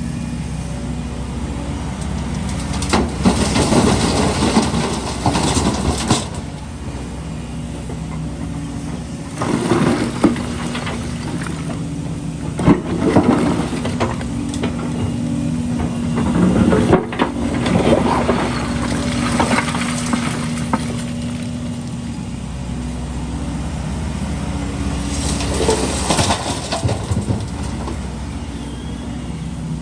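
Heavy diesel machinery, an excavator, running steadily, with repeated spells of crunching and clattering as concrete rubble is scooped and dumped.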